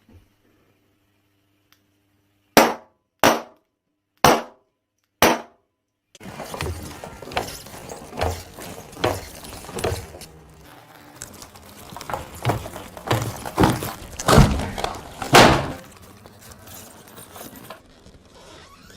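Four sharp pops about a second apart: balloons bursting as a handheld laser hits them. After that comes a busy stretch of cracking and clattering with several louder hits.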